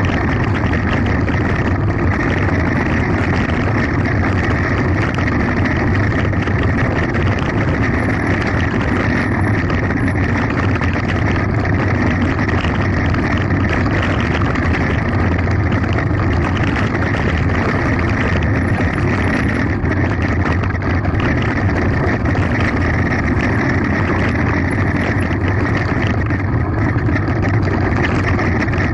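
Steady rumble of a mountain bike descending a gravel forest road at speed: tyres running over gravel, with wind on the microphone.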